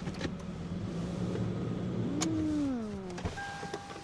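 SUV engine running at a steady low idle. About halfway through there is a click and a whine that falls in pitch over about a second, and the engine hum stops. Near the end a steady electronic chime tone sounds.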